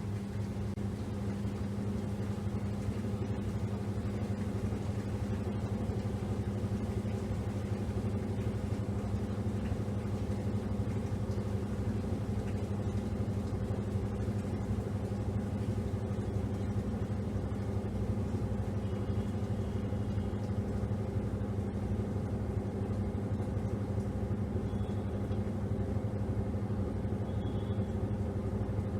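Top-loading washing machine running, a steady motor hum that swells slightly in the first second and then holds level.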